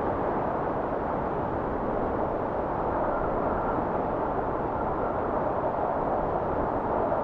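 Blizzard wind blowing steadily, a dense rushing noise with a faint high whistle coming and going from about halfway through.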